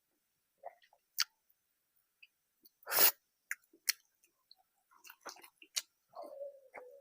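Close-miked chewing and wet mouth sounds of someone eating rice and curry, with scattered clicks and smacks and one louder burst about three seconds in. A brief hum comes near the end.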